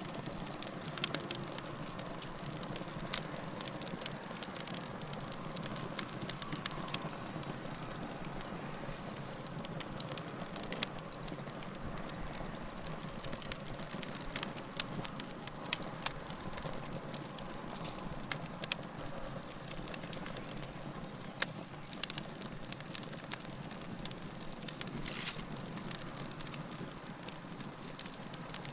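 Wood fire crackling: a steady low rush of burning with frequent sharp, irregular pops and snaps.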